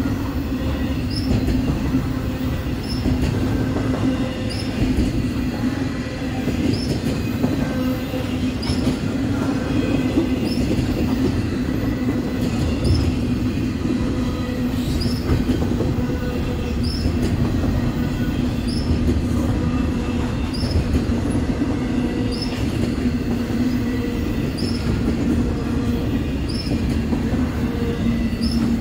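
Freight train rolling slowly past, with a steady rumble and hum of wheels on the rails. A faint light click repeats about once a second.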